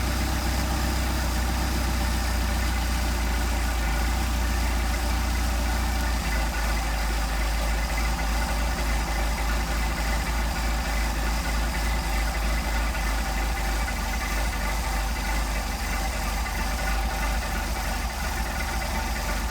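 Mercedes-Benz 190SL's 1.9-litre four-cylinder engine, fed by twin Solex carburetors, idling while its idle speed is turned down from about 800 rpm. From about six seconds in the engine beat slows into separate, evenly spaced pulses.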